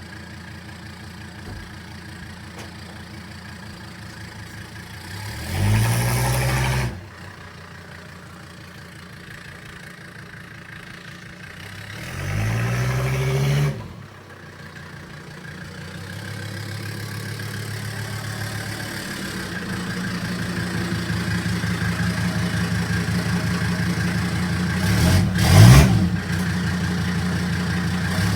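Straight-piped Mercedes-Benz 300D (W123) turbodiesel five-cylinder running with no exhaust system: idling, revved up briefly twice, then brought up gradually to a higher steady speed, with two sharp blips of the throttle near the end.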